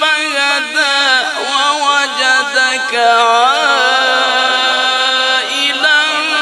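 A solo voice singing a long, unbroken, ornamented melodic line in a Middle Eastern chanting style, sliding and wavering between notes on one sustained breath.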